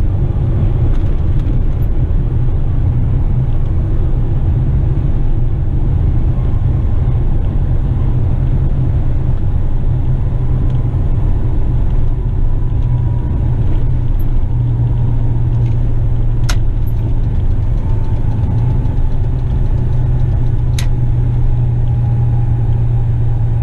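Western Star tipper truck heard from inside the cab while driving: a steady low engine drone with road noise. Two sharp clicks come a few seconds apart late on.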